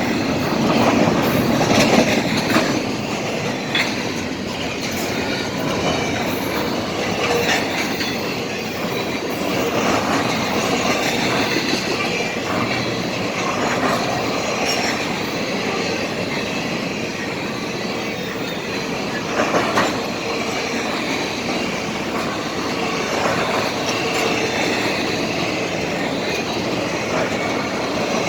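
Norfolk Southern freight train's cars rolling steadily past, wheels knocking over rail joints with some high squealing from the wheels.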